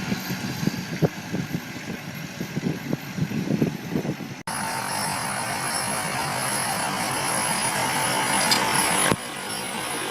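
Heavy farm machinery working: irregular knocking and clattering for the first few seconds, then after an abrupt cut a steady machine engine drone with a high whine.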